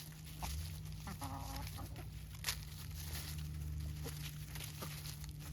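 Chickens clucking, with one short pitched call about a second in and a sharp click about two and a half seconds in, over a steady low hum.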